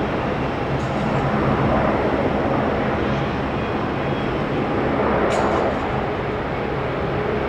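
Airbus A380's four jet engines running, a steady low rumble with a faint hum in it.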